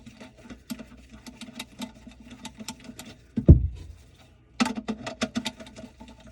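Rapid, irregular light clicks and taps over a faint steady hum, with one heavy low thump about three and a half seconds in.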